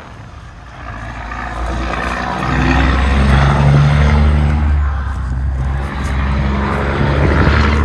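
A large engine running close by, growing louder over the first few seconds and then holding a steady low hum.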